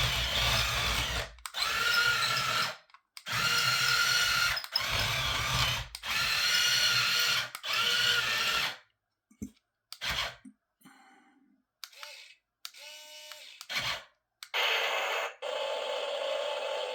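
Toy RC tank's small electric gear motors whirring in a series of short bursts, about six in the first half, each a second or so long with a steady whine. Then a few clicks and brief whirs, and a steadier, quieter whir near the end.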